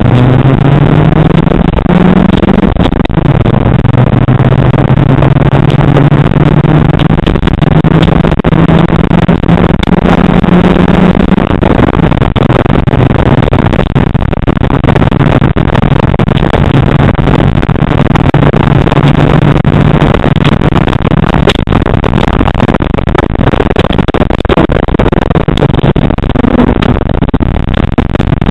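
Rally car engine heard from inside the cabin while driven hard. Its note climbs and drops back as the driver accelerates and changes gear, a few seconds in and again about twelve seconds in, over loud, steady road noise.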